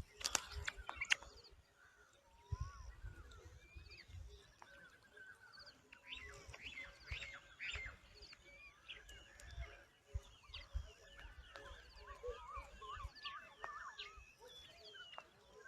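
Faint chorus of several small birds chirping and whistling, many short varied calls overlapping, over a low rumble of wind.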